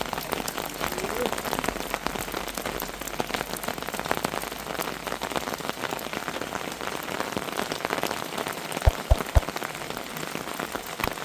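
Heavy rain pattering steadily, a dense stream of small drop ticks. About nine seconds in come three short low thumps.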